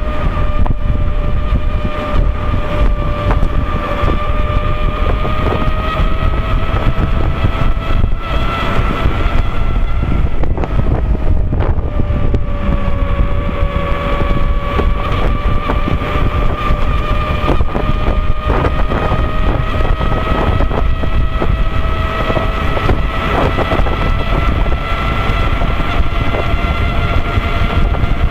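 Knobby tyre of an Inmotion V13 electric unicycle humming on the road while riding, a steady drone whose pitch drifts slightly up and down with speed. Wind rumbles on the microphone underneath.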